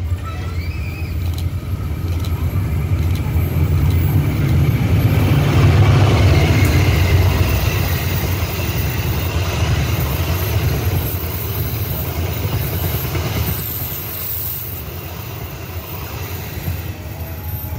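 Passenger train hauled by a CC206 diesel-electric locomotive passing at speed. The rumble and wheel-on-rail noise build to their loudest about six seconds in, then fade as the last coach goes by.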